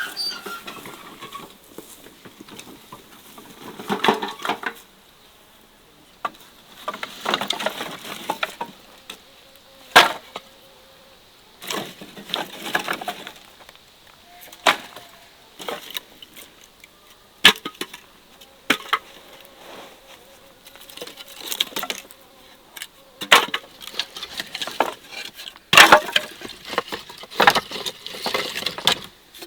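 Irregular sharp knocks and clicks between short bursts of rustling, with quieter gaps between them.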